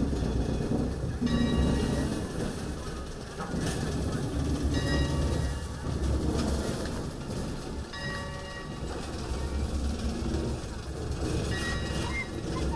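A train running along the track, with a steady low running sound that swells and eases every second or two.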